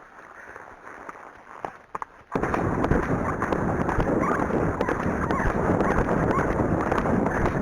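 About two seconds in, the horse moves off into a canter: wind buffets the rider's microphone in a loud, steady rush, with hoofbeats underneath. Before that there are only a few light clicks.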